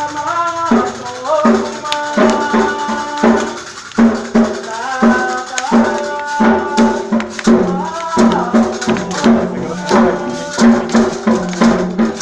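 Sung Candomblé chant to Sángò: voices hold and slide between notes over a steady beat of drums and a shaken rattle.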